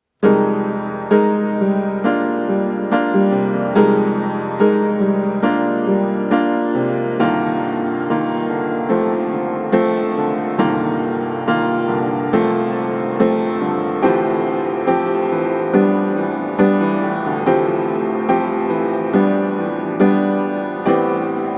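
Gentle piano music playing in a slow, even rhythm, with a new chord or note struck a little more than once a second.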